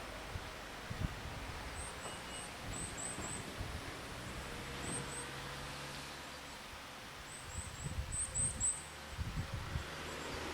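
A small bird gives short, high chirps in two quick runs of several notes, a few seconds apart, over a steady rushing background. A few low bumps come near the end.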